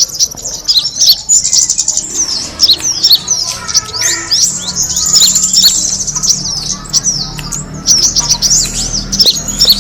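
Small bird calling: rapid high chirps and buzzy trills mixed with quick falling whistled notes, with a brief thinner stretch about four seconds in. It is the kind of call used as a lure to attract birds.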